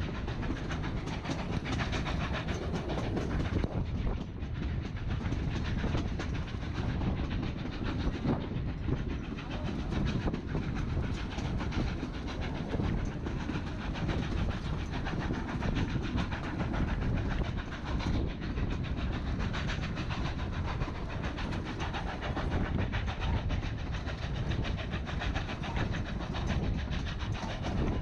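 Narrow-gauge passenger train rolling along, heard from on board. There is a steady rumble of wheels on rail with a constant fine rattling clatter from the cars.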